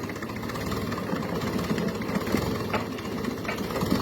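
Grey Ferguson tractor engine running steadily while hauling a heavy tree stump, with a few short knocks in the second half.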